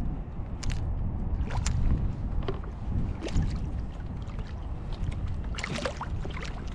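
Water splashing and lapping against a fishing kayak, over a steady low rumble, with scattered short clicks and a brief flurry of splashes about six seconds in.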